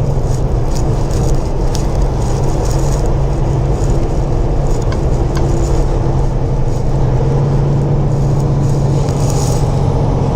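Semi truck's diesel engine running steadily with road noise, heard from inside the cab as a constant low drone.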